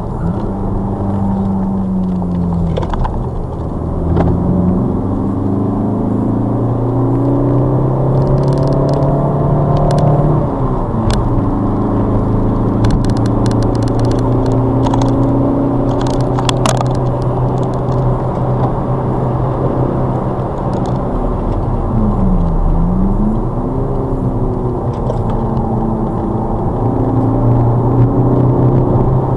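Ford Focus ST diesel's 2.0 four-cylinder turbodiesel engine heard from inside the cabin under hard track driving. The revs climb and fall, dropping sharply about ten seconds in and dipping and recovering about two-thirds of the way through, with road noise underneath and light rattling clicks in the middle.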